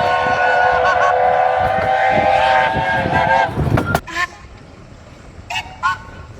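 Several narrow-gauge steam locomotive whistles sounding together in one long, loud chord of different pitches, cutting off abruptly about four seconds in. Two short, fainter toots follow near the end.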